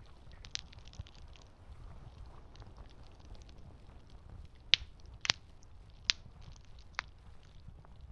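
Campfire crackling: sharp pops and snaps from the burning wood, the loudest four coming between about five and seven seconds in, over a low steady rumble.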